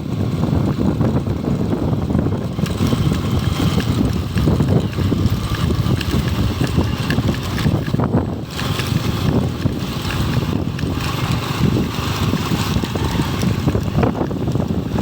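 Wind buffeting the microphone over the low rumble of a running motorcycle, as heard while riding.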